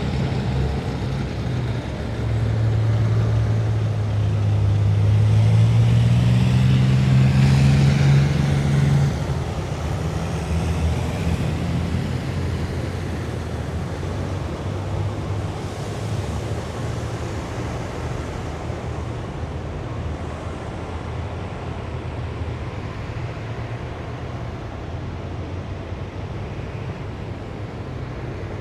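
Heavy military vehicle engine passing on the road. A low engine note climbs in pitch and grows louder for several seconds, peaks about eight or nine seconds in, then drops off. A steady low rumble of engines follows and slowly fades.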